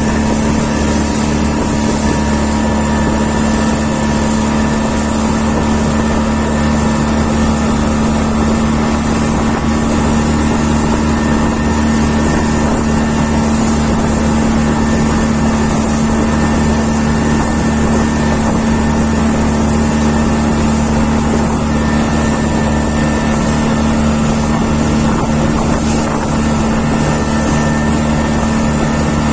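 Engine running at a steady pace with a constant low hum and a dense mix of steady overtones, unchanging throughout.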